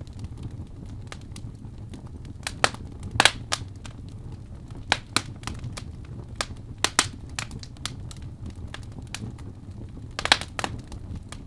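Fire in a fireplace crackling: irregular sharp pops and snaps over a low steady rumble, with the loudest pops about three seconds in and again near the end.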